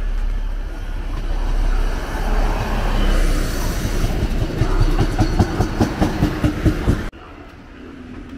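A moving train with a deep rumble; in the second half its wheels clatter over rail joints in a quick, even rhythm. The sound cuts off suddenly about seven seconds in.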